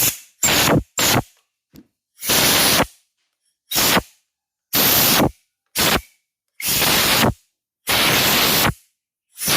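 Short hissing blasts of a pressurized spray, about ten in a row, each under a second long, with silence between them.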